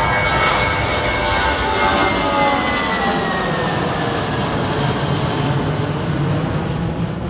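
Boeing 777-200 jet engines at takeoff power as the airliner passes: a loud roar with several whining tones gliding down in pitch, easing a little near the end.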